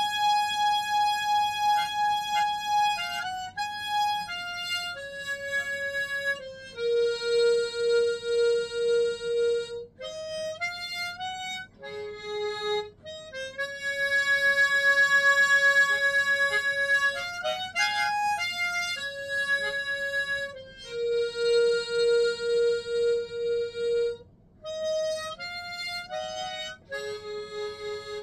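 Solo harmonica playing a slow melody, one note at a time, with long held notes, some of them pulsing evenly. The harmonica cannot give some of the semitones the tune needs.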